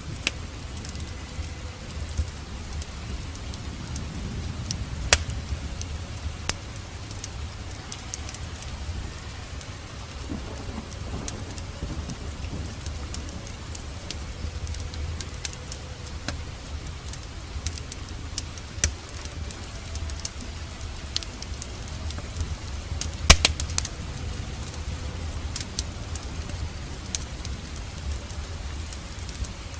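Steady rain with a low rumble of thunder, dotted with sharp crackling pops from a wood fire, the loudest pop about 23 seconds in.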